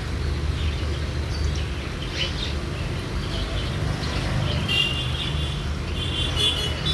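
Steady low rumble with birds chirping over it, the chirps starting a little past halfway.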